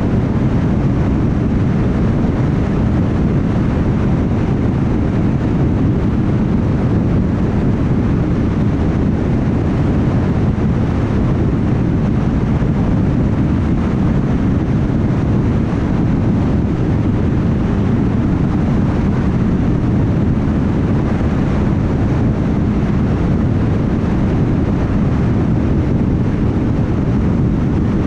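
Car cruising at freeway speed: steady tyre and wind noise with a low rumble, unchanging throughout.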